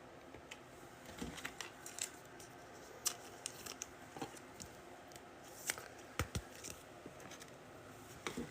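Trading cards and a foil pack wrapper being handled: faint, scattered rustles, crinkles and light clicks.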